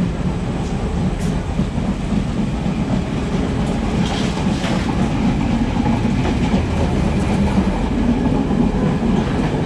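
Steady rumble of a Class S11 diesel multiple unit running along the line, heard inside a passenger coach, with the odd click from the running gear.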